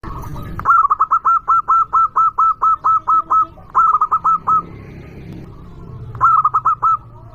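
Zebra dove (perkutut) cooing: a fast run of about a dozen short, clipped notes, then two shorter bursts of four or five notes each.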